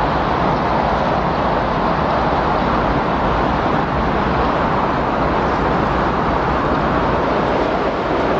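Recorded windstorm: a steady, unbroken rush of strong wind that holds the same level throughout, without distinct gusts.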